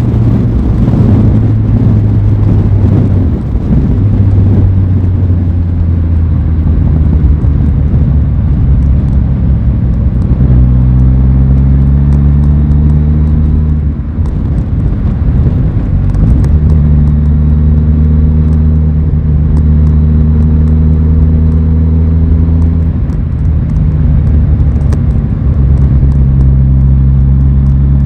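Aprilia Tuono 660's parallel-twin engine running under way at fairly steady revs, its note shifting a few times with short drops in throttle, about a third and halfway through and again near the end.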